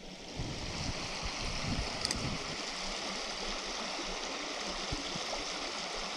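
Creek water rushing steadily, with a few low thumps in the first couple of seconds.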